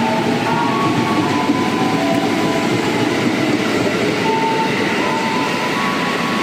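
Train running at the station, a loud steady rumble with short high tones coming and going over it.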